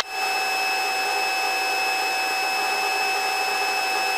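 Helicopter in flight heard from inside the cabin: a steady drone with several fixed high whining tones, unchanging throughout.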